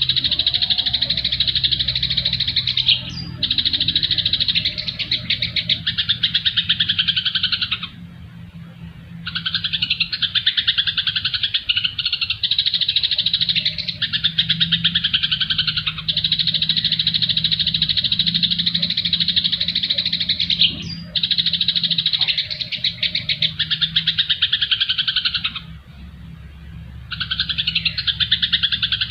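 Songbird song from a masteran song-tutor recording: long runs of rapid, high chattering notes, broken by short pauses every few seconds. A steady low hum runs underneath.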